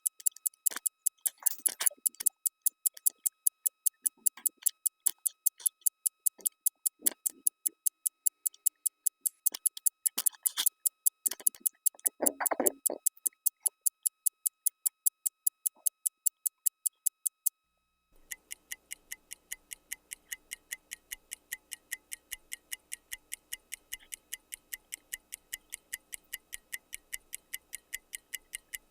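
Fast, even clock-like ticking, about four ticks a second. It stops briefly about two-thirds of the way through and comes back quieter over a low room hum, with a few faint rustles and thumps in between.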